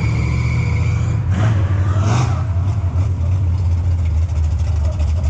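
Mega truck's big engine running with a deep, steady drone, swelling briefly about a second and a half in.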